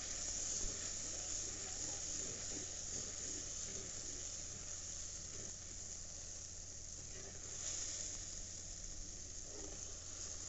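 Onion and spice-paste masala sizzling steadily in hot oil in an earthen pot, stirred with a perforated metal spatula.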